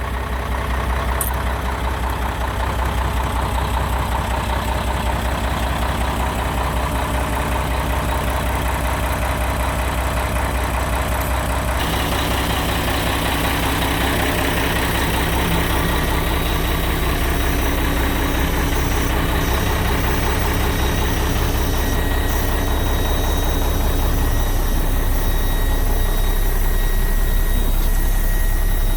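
Cummins L10 diesel engine of a 1997 Peterbilt 320 garbage truck idling steadily. About twelve seconds in, more high-pitched noise and a faint whine join the engine sound.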